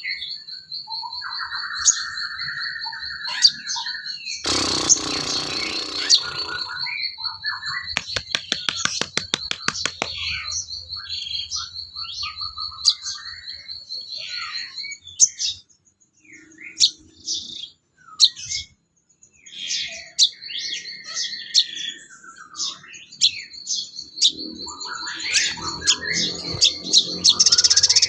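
Sogon bird song recorded for masteran: a steady, high, pulsing trill runs under varied chirps and short whistles. There is a loud harsh burst about five seconds in and a run of rapid clicking ticks around eight to ten seconds.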